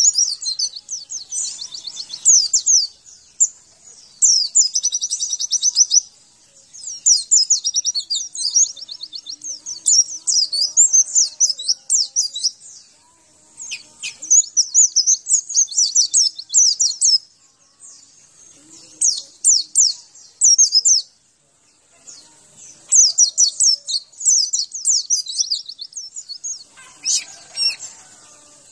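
Pleci (white-eye) singing: rapid, high-pitched twittering phrases of a second or two each, with short pauses between them, as a masteran recording meant to set caged pleci answering and singing.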